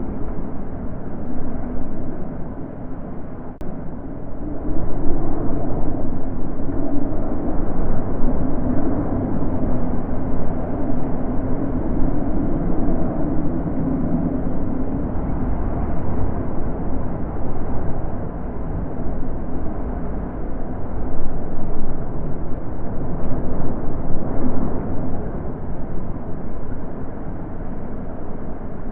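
Natural wind blowing as a low, rushing noise that rises and falls in gusts, swelling a few seconds in and again near the end.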